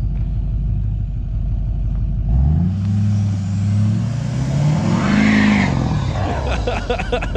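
Truck engine revving up twice as the truck drives through deep snow, its pitch climbing and then dropping back to a low rumble. A rushing hiss rides on the second rev, as of tires churning snow.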